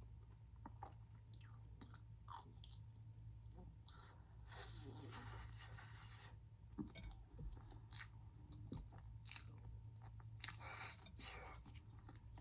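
Close-miked chewing of fried street food, with scattered small mouth clicks and a longer crackly stretch about five seconds in.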